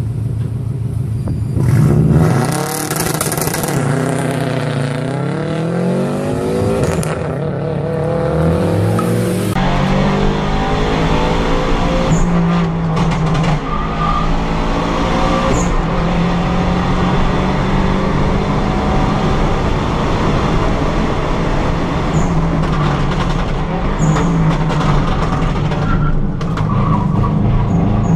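A Subaru Impreza's flat-four engine heard from inside the stripped race car's cabin, revving hard up through the gears with the pitch falling back at each shift, then running at high revs with brief lifts. A loud hiss sits over the engine for the first ten seconds or so.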